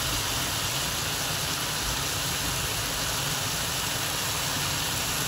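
Diced boneless chicken breast frying in oil in a nonstick frying pan: a steady, even sizzle.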